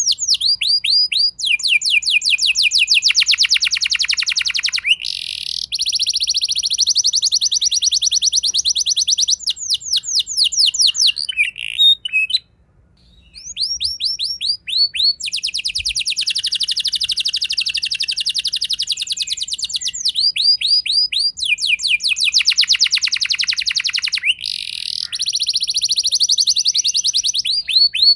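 Domestic canary singing a rolling song: long runs of very fast repeated notes, one trill phrase following another at different pitches, with a brief pause about halfway through.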